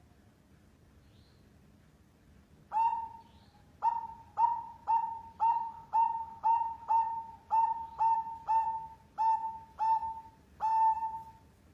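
Zebra dove (perkutut) cooing: after a quiet start, a run of about fifteen short, clear notes at roughly two a second, beginning about three seconds in.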